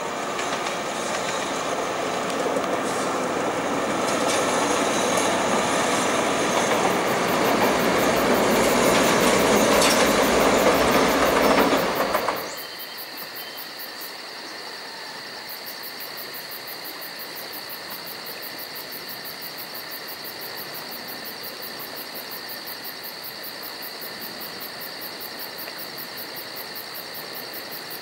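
A State Railway of Thailand diesel locomotive hauling a train past, its engine and wheel rumble growing louder for about twelve seconds and then cutting off abruptly. After that only a quieter, steady high-pitched whine remains.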